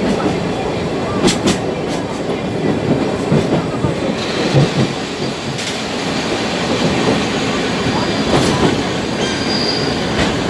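Sagano Trolley Train rolling along the track: a steady rumble of wheels on rail with a few sharp clicks from the rail joints, and a high wheel squeal that comes in during the second half and is strongest near the end.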